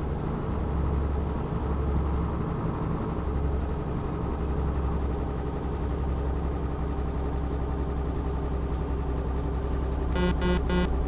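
Tanker truck's engine running steadily while driving. Near the end, a horn gives three quick toots.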